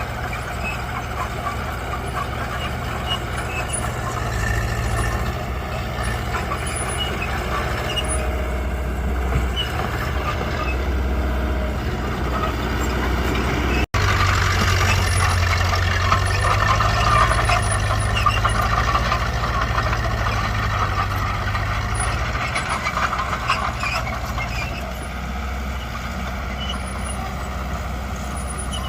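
Diesel engines of heavy earthmoving machines running steadily. The sound cuts out for an instant about halfway through and is louder afterwards.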